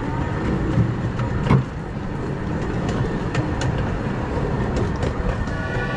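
Redwood Valley Railway's 15-inch-gauge steam train running on its track: a steady rumble with scattered sharp clicks and knocks from the wheels and cars, one louder knock about a second and a half in.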